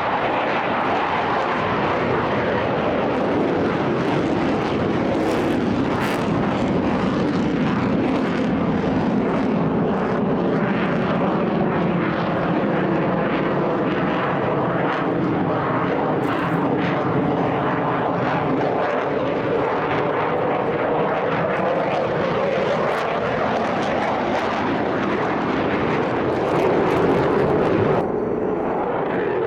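Eurofighter Typhoon's twin EJ200 turbofan jet engines running in a loud, continuous jet roar, its pitch sliding up and down as the fighter passes. Near the end the roar briefly swells, then turns suddenly duller.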